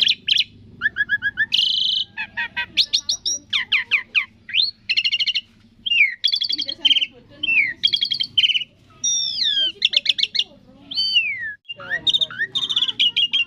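Asian pied starling (jalak suren) singing a varied, continuous song: clear whistles, notes sliding up and down, and quick runs of rapid chattering notes.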